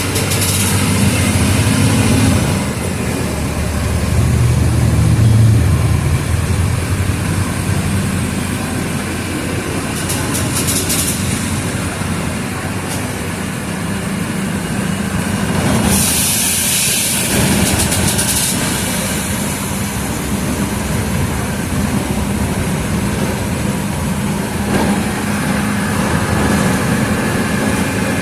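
Mercedes-Benz OF 1722M city bus diesel engine running under way, swelling as it pulls twice in the first several seconds and then settling to a steady drone. A loud burst of hissing lasts about two seconds past the middle.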